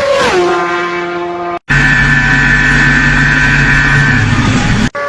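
Superbike engines and exhausts in cut-together clips. First an engine note falls as the bike slows. After a sudden cut comes a louder stretch of an engine held at steady high revs, then another sudden cut to a further engine note near the end.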